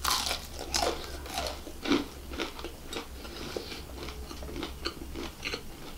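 Close-miked biting and chewing of crispy fried chicken: irregular crunching snaps, loudest at the first bite and again about two seconds in.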